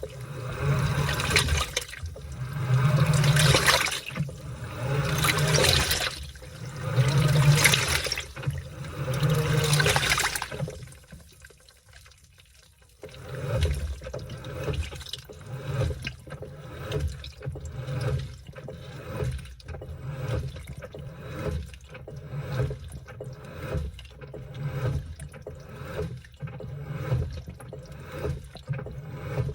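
Washing machine washing a load of laundry: water sloshing as the drum turns, with a low motor hum, in surges about every two seconds. It stops briefly about ten seconds in, then starts again with lighter, quicker surges about once a second.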